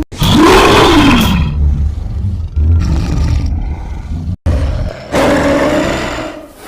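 Horror sound effect of a monster-like creature roar. It starts abruptly, its pitch rising and then falling within the first second, and trails into a rumbling growl. After a short silent gap, a second pitched roar comes in and fades out.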